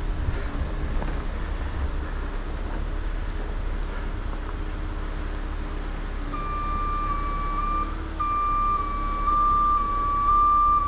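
Heavy diesel truck engine running steadily, the rotator wrecker's engine. About six seconds in a high, thin, whistling tone joins, holding one pitch with small steps and a brief break.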